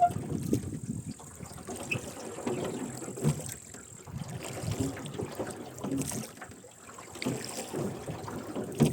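Wooden rowing boat under oars: the oars dip and splash with each stroke while the oarlocks creak, over the wash of water along the hull.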